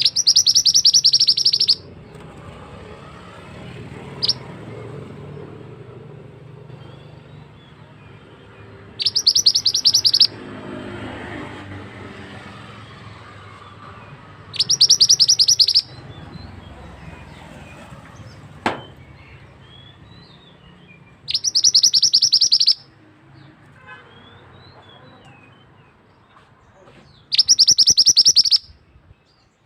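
Mantenan (scarlet minivet) singing: five loud, high, rapid trilled phrases, each about a second and a half long, repeated every five to seven seconds. A steady background of running water lies beneath, with a single sharp click about two-thirds of the way through.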